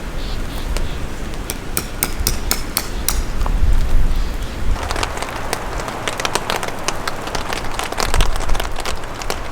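Strong wind rumbling on the microphone while rain patters, with a quick run of sharp taps early on and a denser patter of drops and clicks from about five seconds in.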